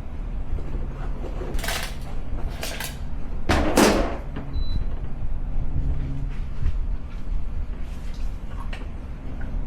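Portable mini fridge being handled: a few clunks and knocks of its lid and plastic body, the loudest about three and a half seconds in, with lighter clicks later, over a low steady hum.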